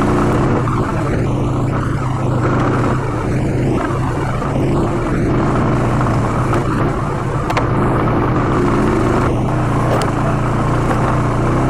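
ATV engine running steadily under way on a dirt trail, a constant low engine note with rough trail noise and a few brief knocks or rattles.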